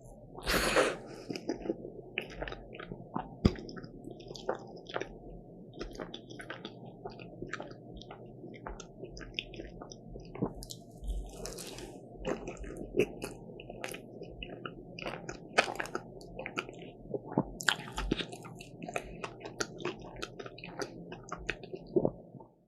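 Close-miked eating of a croffle: a crisp bite about a second in, then chewing with many irregular small crunches and clicks. The sound cuts off abruptly near the end.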